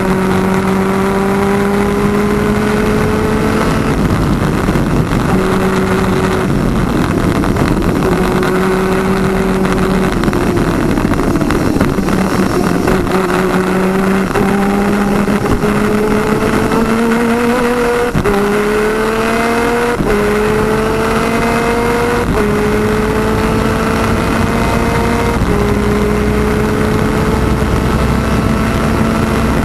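Twin-cylinder 250cc two-stroke superkart engine at race speed. The note breaks up and falls twice in the first twelve seconds or so as the driver lifts off. It then climbs through the gears, with a sudden drop at each upshift about every two seconds.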